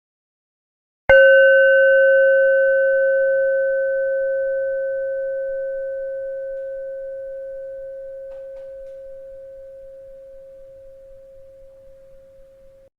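A bell struck once about a second in, ringing with a clear low-mid tone and fainter higher overtones that fade slowly over about ten seconds, then cut off suddenly near the end.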